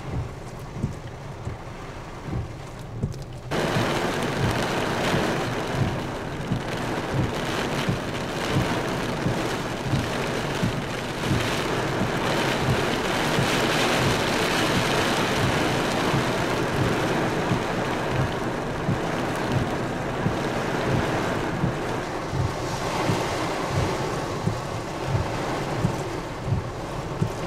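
Heavy rain and wet-road noise heard inside a moving car in a tropical-storm rain band, the downpour getting much louder suddenly about three and a half seconds in, with regular low thumps underneath.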